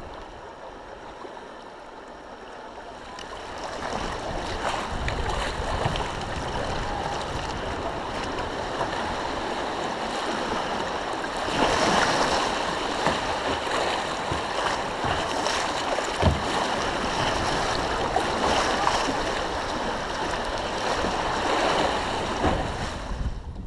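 Rushing water of river rapids around a kayak, a steady hiss that grows louder about four seconds in as the boat runs into the rapids.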